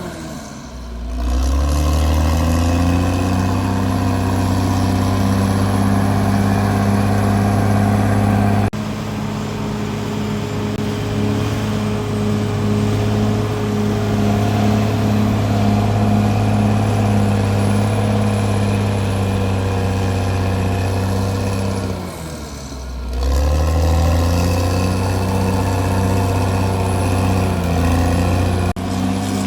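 CAT D6R bulldozer's diesel engine working hard at steady revs. Twice the revs sag and build back up, once near the start and again about 23 seconds in.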